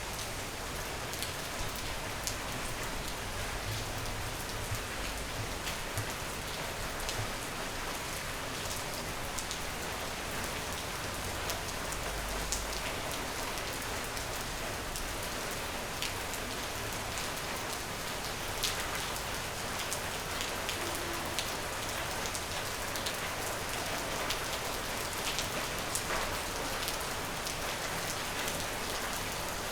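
Steady rain falling, an even hiss with many individual drops pattering close by.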